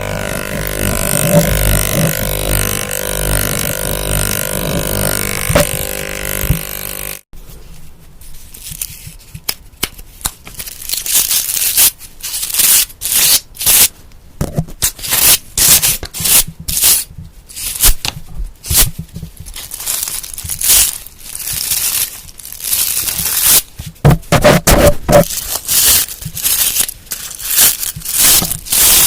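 A dense droning sound with many steady tones that cuts off abruptly about seven seconds in. After it come irregular crackling, scraping and crinkling noises from objects being handled, several strokes a second, with louder clusters near the end.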